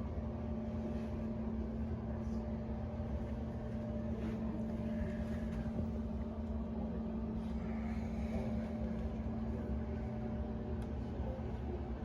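A vehicle travelling at a steady speed: a steady engine hum over a low road rumble.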